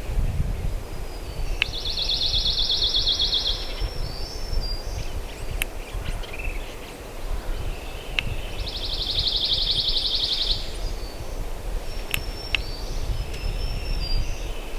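Wind rumbling on the microphone in woods, with a small songbird's dry, rapid trill heard twice, each about two seconds long and several seconds apart. A few faint sharp ticks are also heard.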